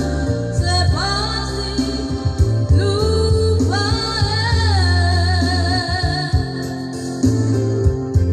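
A solo voice singing a song, holding long notes that slide up into pitch and waver with vibrato, over instrumental accompaniment with a heavy bass line.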